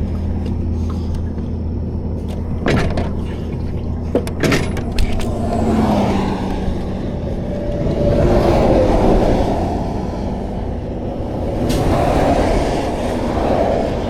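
Interstate traffic passing in swells over a steadily running engine, with a few sharp metal clanks a few seconds in and one more later on.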